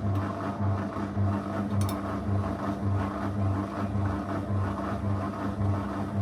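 Zanussi FL984CN front-loading washing machine running through a 35° programme, its motor giving a steady hum with a lower hum that pulses evenly a little more than twice a second.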